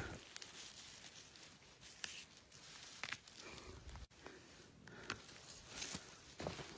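Footsteps and rustling through forest undergrowth, with scattered faint clicks and crackles.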